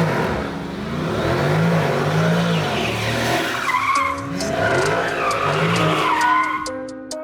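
Car engine revving up and down over and over, with tyre squeal in the middle. Music comes in near the end.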